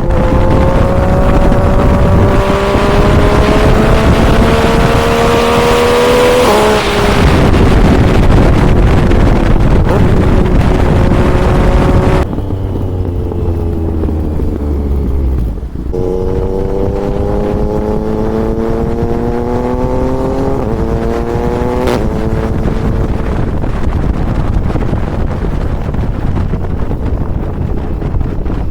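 Motorcycle engine pulling up through the gears while riding, its pitch climbing and then dropping at each upshift, over wind rushing across the microphone. Partway through the throttle eases and the pitch falls for a few seconds, then it accelerates again through two quick shifts and settles into a steady cruise.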